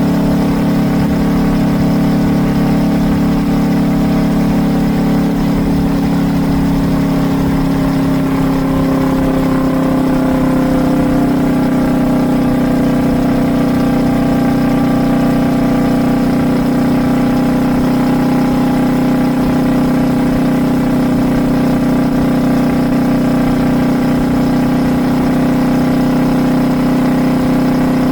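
Kawasaki Vulcan S 650's parallel-twin engine running steadily through a Truedual Valero twin exhaust at highway speed, its pitch shifting slightly about ten seconds in.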